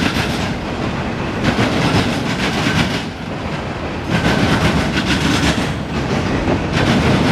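Autorack freight cars of a CSX train rolling past, a steady rumble with a burst of wheel clatter every two seconds or so as each set of wheels crosses the rail joints.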